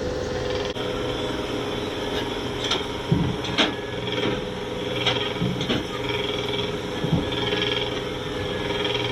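Boat engine running steadily under way, with irregular knocks and creaks over the hum.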